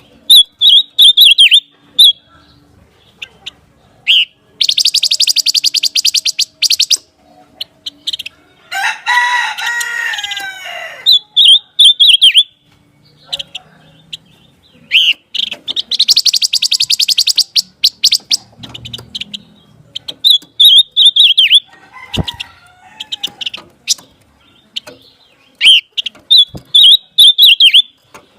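Songbird calls from a bird-training recording: short high whistled phrases that dip in pitch, repeated several times, alternating with long rapid buzzy trills. A lower, harsher call with several tones stacked above one another comes about nine seconds in.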